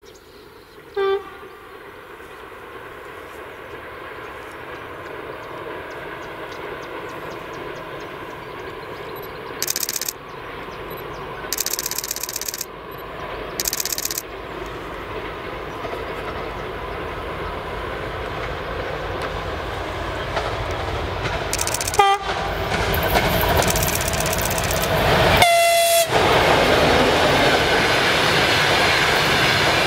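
TEP70BS diesel locomotive hauling a passenger train, approaching and passing close, its running growing steadily louder. A short horn blast sounds about a second in, and two more come near the end, the last higher-pitched and loudest. Three brief high-pitched bursts come midway, and passenger coaches rumble past with wheel clickety-clack at the end.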